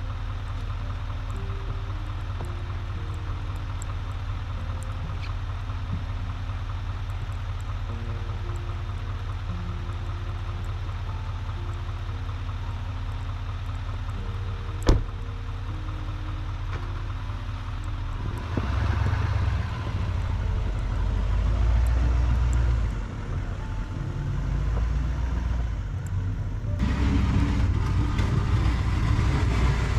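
Snow-plow vehicle's engine idling steadily, with a single sharp click about halfway through. It then grows louder and rougher as it works, and steps up again near the end.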